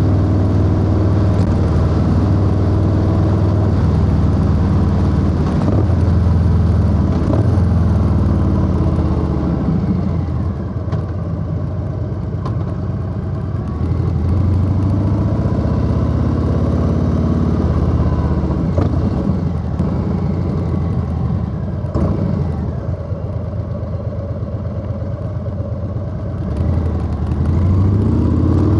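Harley-Davidson Low Rider S V-twin motorcycle riding on the road, engine running steadily. It eases off twice, about ten seconds in and again past twenty seconds, then pulls harder again near the end.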